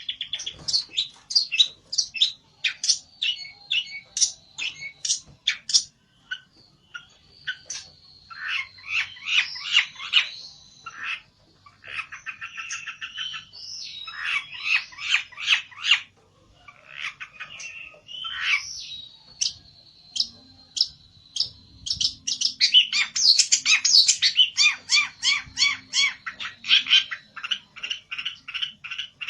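A pelentet songbird calling hard: rapid runs of sharp, high chips and harsh chattering trills in bursts with short pauses, the agitated calling of a bird challenging a rival.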